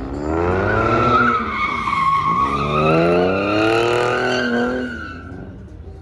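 Car doing a burnout: the engine revs up, drops briefly about two seconds in and revs up again, while the tyres squeal steadily. The sound fades out about five seconds in.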